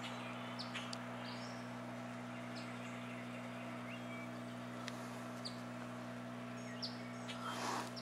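Small songbirds chirping: short, high, falling chirps scattered every second or so, over a steady low hum. Near the end, a brief rustling rush.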